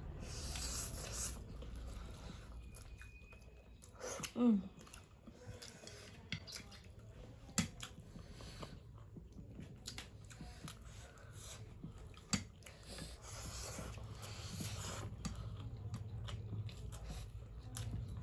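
Close-up chewing and biting of food, with many small irregular mouth clicks and smacks.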